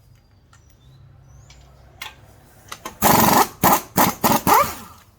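Impact wrench run in a series of loud short bursts on a lug nut, starting about three seconds in after a few clicks. The first burst is the longest, and the motor's pitch rises in the last one.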